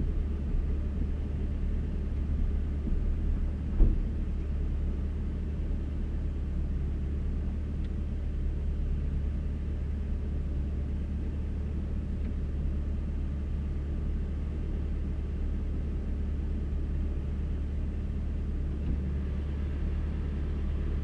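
Diesel truck engine idling steadily with a low rumble after a cold start in freezing weather. There is a single knock about four seconds in.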